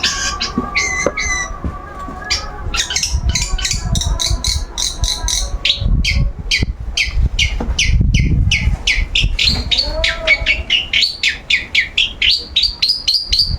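Long-tailed shrike (cendet) singing a fast, unbroken run of sharp, high chirping notes, several a second, with a rising string of notes near the end. A low rumble sits underneath for a few seconds in the middle.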